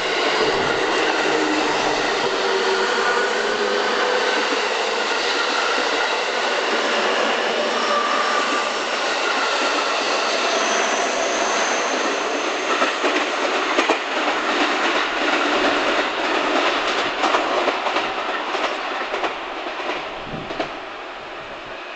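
JR West electric multiple-unit train running through the station, a steady loud rumble with faint whining tones. Wheels click over rail joints from about halfway through, and the sound fades near the end.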